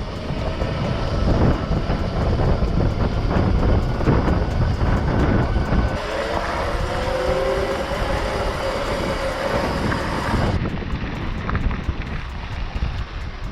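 Wind buffeting the microphone on a moving electric bike, a heavy low rumble, with a whining tone that bends up and down in pitch for a few seconds in the middle.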